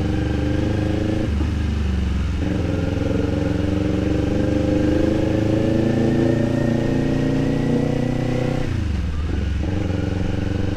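Kawasaki Z400 parallel-twin engine running under way, its note slowly rising in pitch. The engine note drops out briefly twice, about a second in and near the end, then picks up again.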